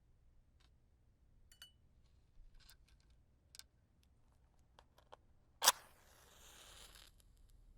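Light clicks of wooden matches being handled. Late on, one match is struck sharply and flares, with about a second of hiss as it catches.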